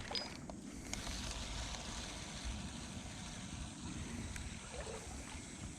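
Wind rumbling on the microphone over a steady hiss of flowing creek water.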